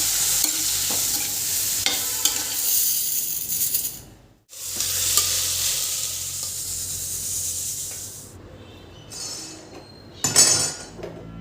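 Food sizzling in a hot frying pan while being stirred, with light scrapes and clinks. The sizzle breaks off briefly about four seconds in, fades a little after eight seconds, and a short louder burst of sizzle comes near the end.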